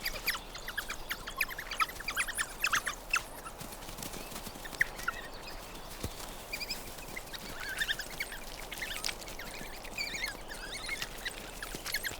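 Coyote pups squeaking and yipping: many short, high calls in quick clusters, busiest in the first few seconds and then coming in scattered bursts.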